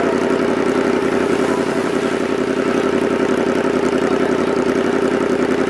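Yamaha R1 sportbike's inline-four engine running steadily at low revs as the bike rolls slowly along.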